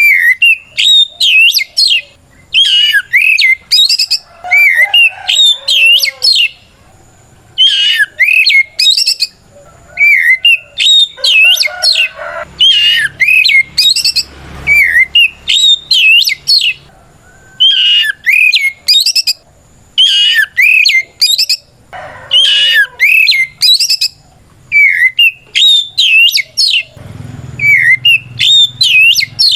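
Oriental magpie-robin (kacer) in loud, full song, the challenging song that calls out a rival: phrase after phrase of quick, varied whistles and warbles, each lasting a second or two, with short pauses between.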